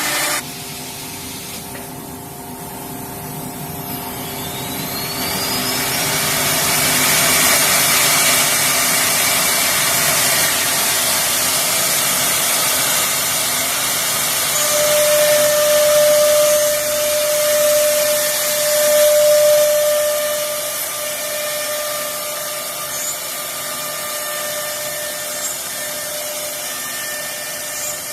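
CNC router spindles running and cutting, a steady whine under dense cutting noise. A whine rises in pitch a few seconds in, and the noise grows louder through the middle, where a clear tone holds for several seconds.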